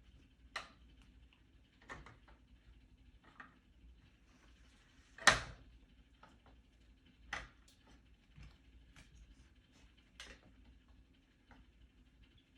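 Toy train track pieces and track supports being handled and fitted together: scattered small clicks and knocks, with one louder knock about five seconds in.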